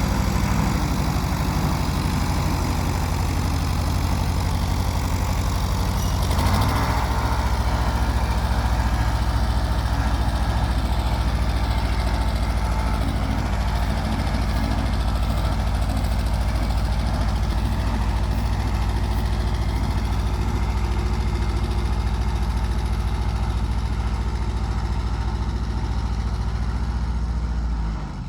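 Allis-Chalmers farm tractor engine running steadily, with a brief clunk about six seconds in. The sound drops off sharply near the end.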